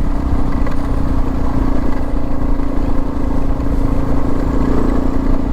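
Suzuki DR650's single-cylinder four-stroke engine running steadily under way, at an even pitch.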